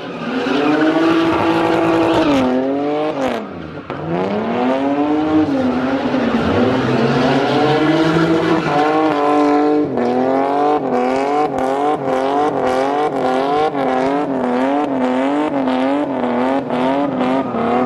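Lexus engine revving hard, its pitch climbing and falling, with a brief drop about three to four seconds in. Later the revs bounce up and down about twice a second, with repeated sharp exhaust pops, the popping that goes with its exhaust flames.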